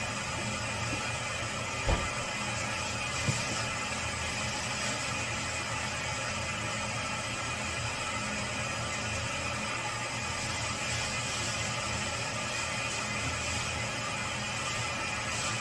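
Steady machine hum with a hiss over it, broken by two short knocks about two and three seconds in.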